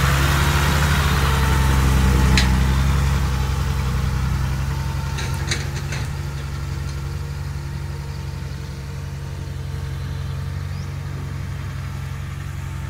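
Heavy diesel engine idling steadily and slowly growing quieter, with a single sharp metallic click a couple of seconds in and a short cluster of clicks near the middle.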